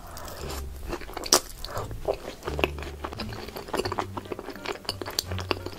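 Close-miked chewing of a mouthful of fries smothered in melted cheese and Thousand Island-style sauce: irregular wet mouth clicks and smacks, one sharper about a second and a half in.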